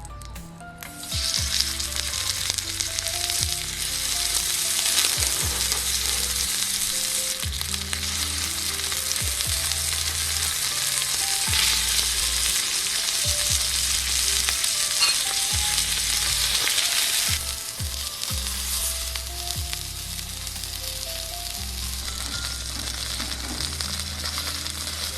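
Food frying in a pan over a campfire, a steady sizzle that starts about a second in and eases a little two-thirds of the way through.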